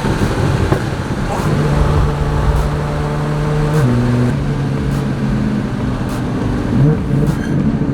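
Nissan GT-R R35's twin-turbo V6 running through a Linney drag exhaust as the car drives at a steady engine speed, its note stepping down to a lower pitch about four seconds in.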